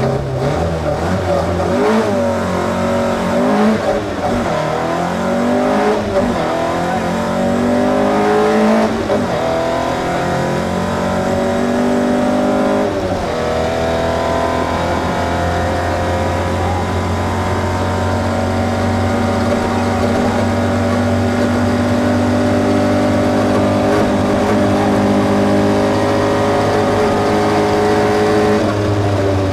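Opel Ascona A rally car's engine heard from inside the cabin, revving up and falling back through gear changes for the first dozen seconds, then holding one long, nearly steady high-revving pull that drops off near the end.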